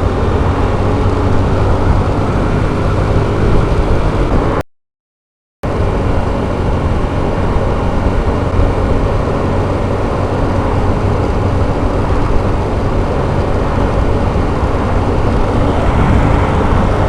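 Hyosung GT125R's 125 cc V-twin running steadily at cruising speed, under steady wind rush on the microphone. The sound drops out completely for about a second, about five seconds in.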